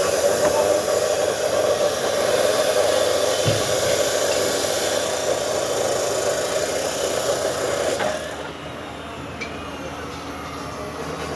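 Steady machinery noise with a strong hiss and a steady mid-pitched hum, dropping sharply about eight seconds in to a quieter, lower hum.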